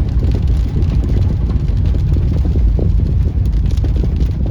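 Car driving on a rain-soaked street: a loud, steady low rumble of road and engine noise.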